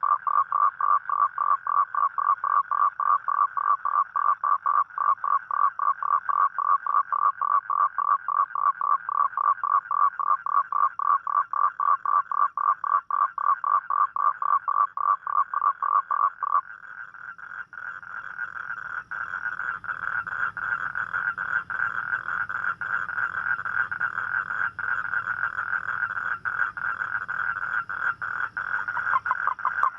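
Toad calling: a fast, evenly pulsed trill that stops about halfway through. A higher, more continuous trill then builds, and the first pulsed call comes back near the end.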